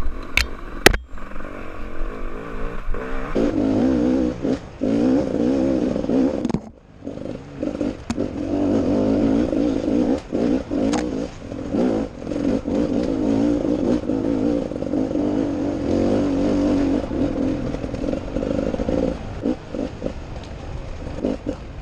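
Enduro dirt bike engine running and revving under load, heard from a camera mounted on the bike, with knocks and clatter from the bike over rough ground. The engine drops off briefly about seven seconds in, then pulls again.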